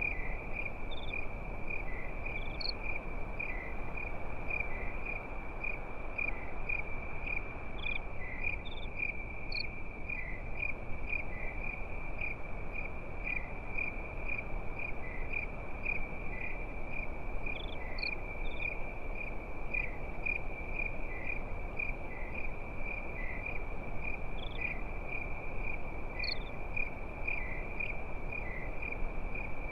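Crickets chirping at night in a steady, fast-pulsing high trill, with a few brief higher chirps now and then. Beneath them runs an even, low hiss with light crackle, which the recording sets down as a campfire.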